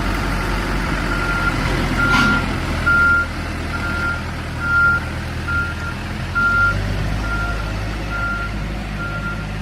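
Case 580N backhoe loader's diesel engine running with its reverse alarm beeping steadily, a little faster than once a second: the machine is backing up. A single clank about two seconds in.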